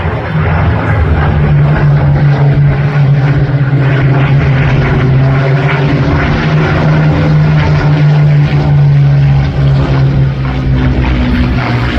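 Loud, steady drone of a propeller-driven piston-engine aircraft flying in the display, its deep engine note holding nearly constant.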